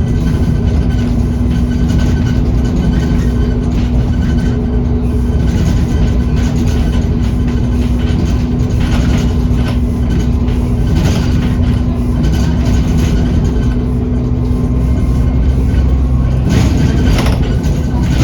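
Bus engine and turbocharger heard from on board while driving, with a steady low drone and a faint high whistle above it. The noise grows louder and brighter near the end.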